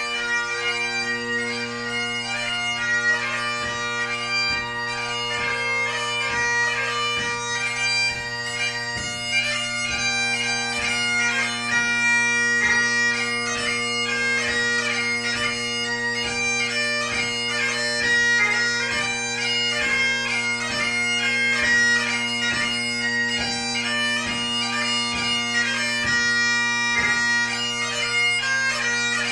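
Great Highland bagpipe played solo: steady drones under a fast chanter melody full of quick grace notes, a ceòl beag (light music) competition tune.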